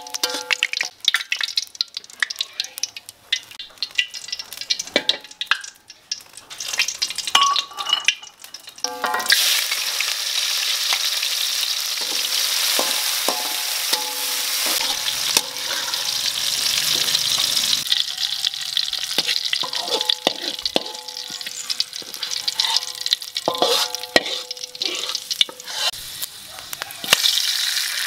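Sliced red chillies sizzling in hot oil in a metal wok while a metal spatula scrapes and clinks against the pan. The first seconds are mostly clinks and scrapes of metal on the wok; a loud, steady sizzle starts about nine seconds in and carries on under further scraping.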